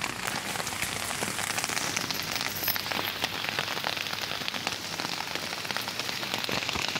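Storm rain falling steadily on a tent and into standing floodwater on grass: a dense, even patter of countless drops.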